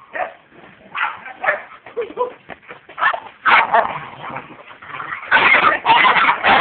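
Pet dogs barking and yipping in play, in short separate calls that come thicker and louder from about five seconds in.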